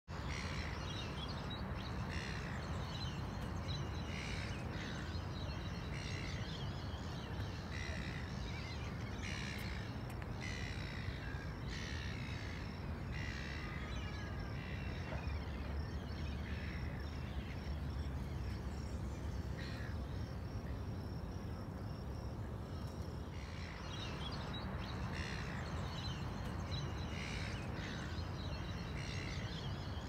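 Birds calling over and over, short calls every second or two with a lull about two-thirds through, over a steady low rumble.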